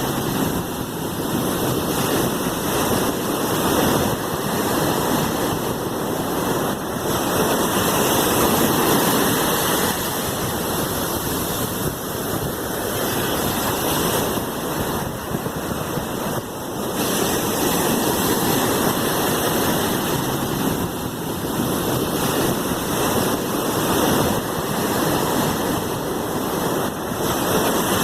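Sea waves washing continuously: a steady rush of water that swells and eases gently in level.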